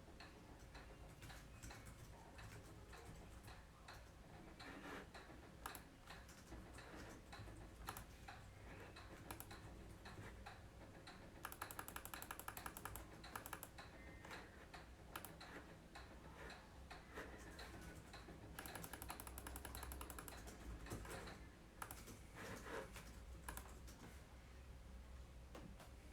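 Faint computer keyboard typing: scattered key clicks, with two quicker runs of keystrokes about 11 seconds in and again around 19 seconds.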